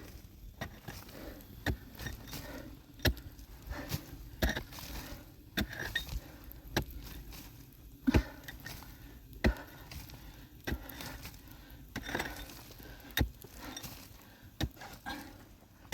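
A series of sharp knocks and clinks at irregular intervals, roughly one every second or so, with faint rustling and scraping between them.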